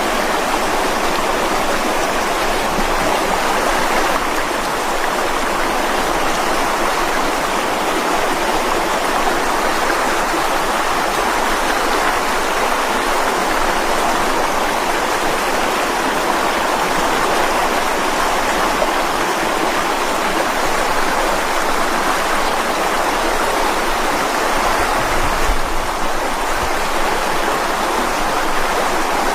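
Mountain stream rushing and splashing over rocks, a steady dense rush of water.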